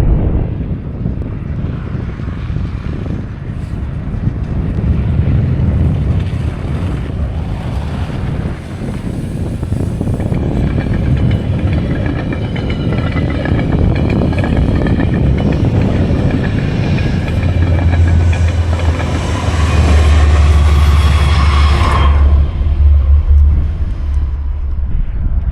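Wind buffeting the microphone with a steady low rumble, and a motor vehicle passing. Its whine builds up over about ten seconds and stops abruptly near the end.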